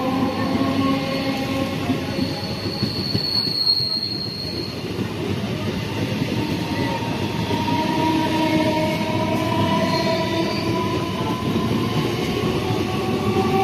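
Train running at speed on the rails: a steady rumble of wheels on track, with whining tones that slowly drift in pitch.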